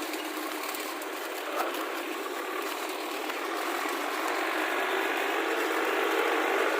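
Heavy diesel machinery running with a steady mechanical clatter that grows slightly louder.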